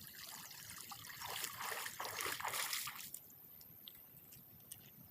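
Water splashing and sloshing as a fishing net is lifted and worked in the water. It builds, is loudest around two seconds in, and stops abruptly about three seconds in.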